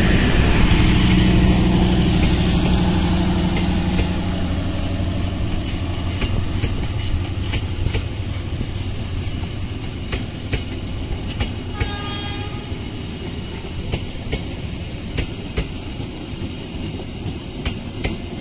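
Passenger coaches of a diesel-hauled train rolling past, the wheels clicking rhythmically over rail joints as the train moves away. A low engine drone fades over the first few seconds, and a brief high tone sounds about twelve seconds in.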